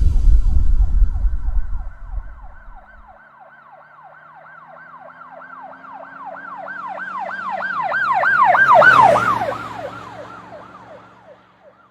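Emergency-vehicle siren wailing in a fast rise-and-fall cycle of about three sweeps a second, with an engine hum beneath. It grows louder to a peak about nine seconds in, then drops slightly in pitch and fades away as it passes. A loud booming whoosh dies away in the first two seconds.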